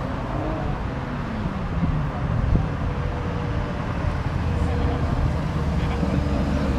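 Car engines and exhausts as cars drive by. One engine's pitch falls in the first second, and another rises near the end.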